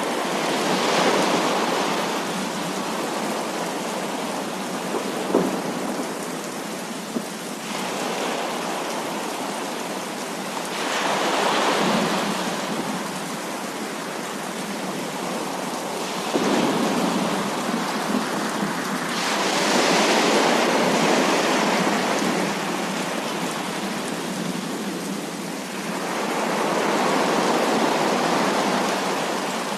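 Heavy rain falling steadily, with rolls of thunder that swell and fade every few seconds and a few sharp drips.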